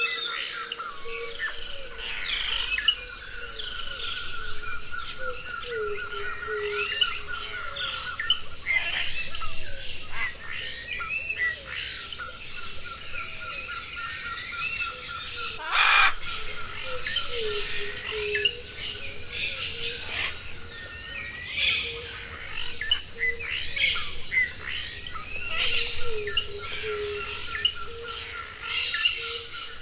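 Many birds chirping and calling over one another, with a steady rapid trill behind them and repeated lower gliding call notes. One sharp, louder sound comes about halfway through.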